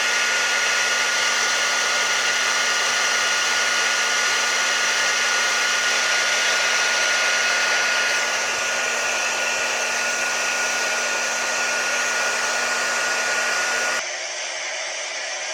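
Hair dryer running steadily: an airy rushing blow with a thin high whine over it. About 14 seconds in it cuts abruptly to a quieter, duller steady blowing without the whine.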